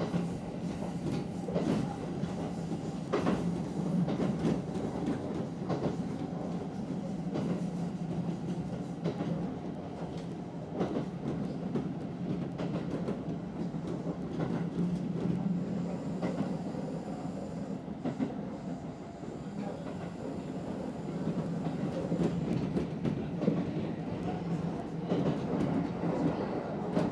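Kintetsu Ikoma Line electric commuter train running along the line, heard from inside its cab. There is a steady rumble of wheels on rail, with scattered sharp clicks as the wheels pass over rail joints.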